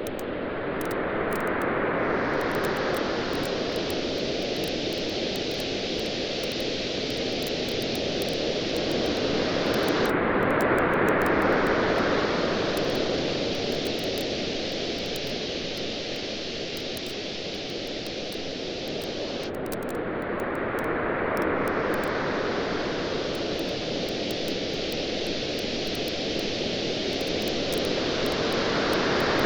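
Ocean waves washing onto a beach in slow swells about every nine to ten seconds, with a campfire crackling in many small pops throughout.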